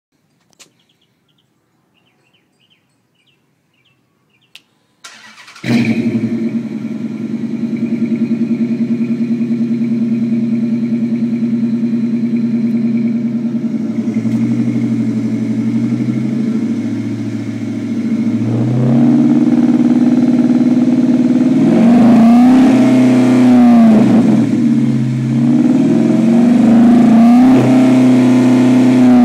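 Dodge Charger R/T's 5.7-litre HEMI V8 starts abruptly about five seconds in, after a few faint clicks, and settles into a steady idle. In the second half it is revved in several blips, the pitch rising and falling each time.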